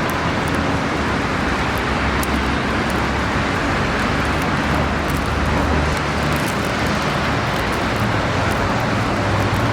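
Steady street traffic noise, with the low hum of passing engines rising and falling under a constant rush of road noise.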